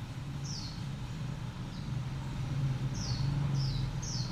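Short high bird chirps, each falling in pitch, about five in a few seconds, over a steady low hum.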